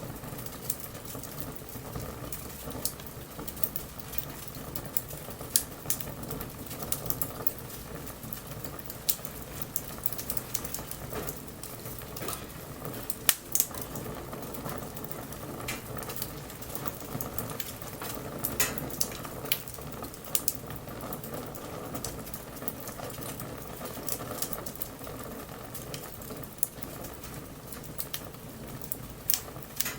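Wood bonfire burning, crackling with irregular sharp pops and snaps over a steady hiss.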